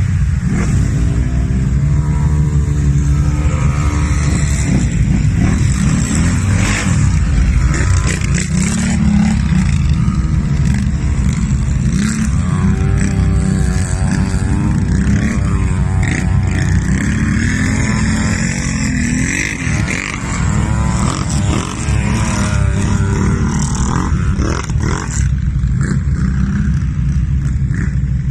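Off-road vehicle engines running loud and revving, the pitch climbing and dropping again and again.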